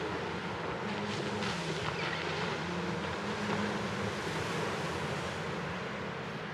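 Steady beach surf and wind on the microphone, with a low engine drone running underneath throughout.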